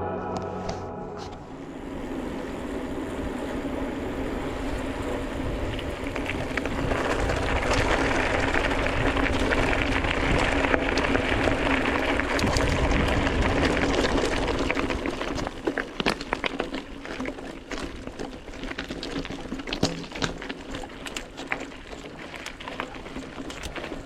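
Mountain bike ridden over a rough, stony forest road: a steady rush of tyre and wind noise, then, from about two-thirds of the way in, many sharp clicks and knocks as the bike rattles over the stones.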